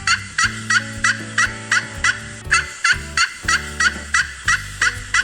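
Wild turkey gobbling: a long run of short, quick calls, about three a second, each dropping in pitch, with a brief break near the middle.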